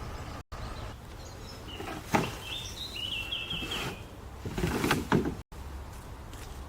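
Outdoor woodland ambience with a bird's short chirping trill near the middle, among a few wooden knocks and rubbing sounds, the loudest about two and five seconds in.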